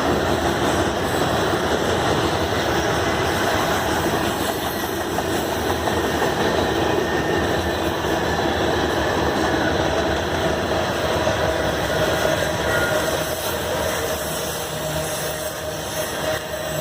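A train rolling past with a steady rumble of wheels and cars.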